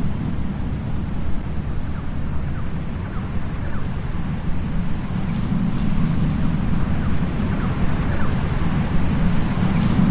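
Steady wind rumbling on the microphone over the continuous wash of sea surf.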